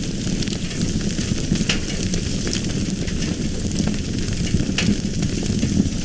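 Fire burning with a steady low rumble and scattered sharp crackles and pops.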